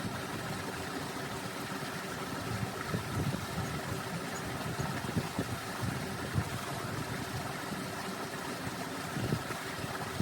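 Wind gusting on the microphone, with a steady mechanical hum underneath.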